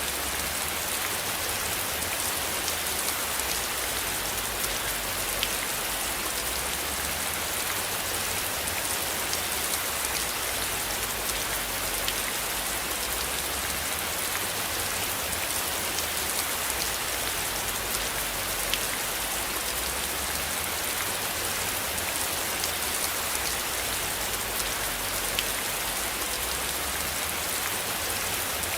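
Steady rain falling: a dense, even hiss with scattered sharp ticks of single drops.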